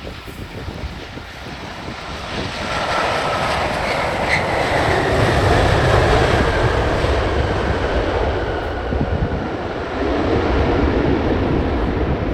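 Jet airliner's engines passing close by, the noise swelling about two seconds in and staying loud, with a faint whine that falls in pitch as it goes past.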